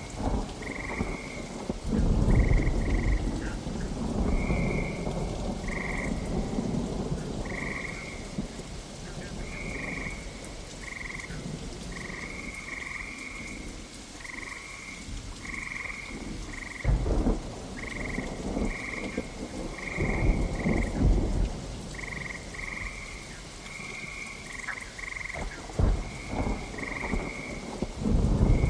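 Steady rain with several low rolls of thunder, one about two seconds in and others later. Frogs keep calling through it with short, high, repeated notes.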